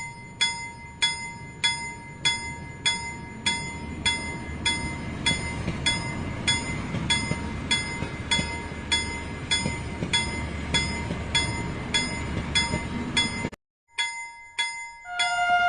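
Toy steam train's bell ringing at an even rhythm, a little under two strikes a second, over the low rumble of the running train, which grows louder midway. The ringing breaks off briefly near the end and resumes, and music with held notes comes in at the very end.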